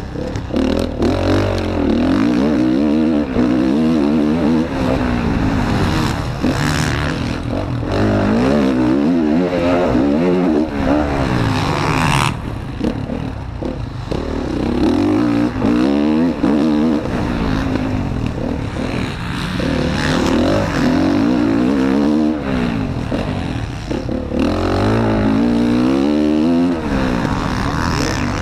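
Motocross bike engine revving hard, its pitch climbing and dropping again and again as the throttle is opened and shut, heard up close from an onboard camera.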